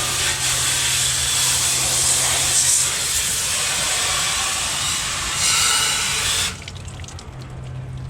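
Garden hose spray nozzle jetting water onto an air conditioner condenser's coil fins, a steady hiss that cuts off suddenly about six and a half seconds in.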